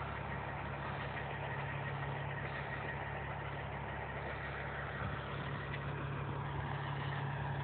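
Diesel engine of a heavy truck idling steadily, a low even hum.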